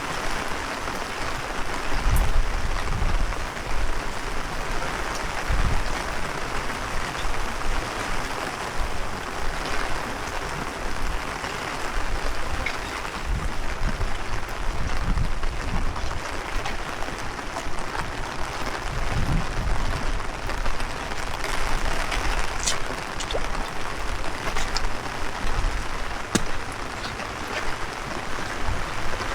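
Heavy rain falling steadily as a dense hiss, with gusts of strong wind rumbling on the microphone and scattered sharp drops ticking.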